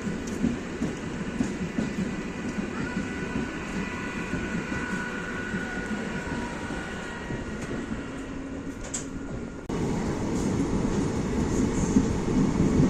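Passenger express train on the move: steady rumble of wheels on the track with a faint high squeal through the middle. About ten seconds in, the sound cuts abruptly to a louder stretch of the same running noise.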